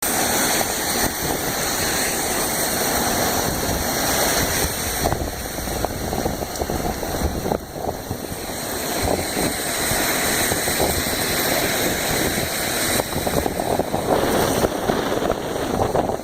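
Violent thunderstorm winds gusting with heavy rain in a loud, continuous rushing noise, the wind buffeting the microphone. It eases briefly about halfway through, then builds again.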